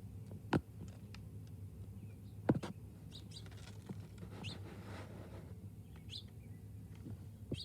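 Small birds chirping in short, scattered notes, with a few sharp taps; the loudest tap comes about two and a half seconds in. A steady low hum runs underneath.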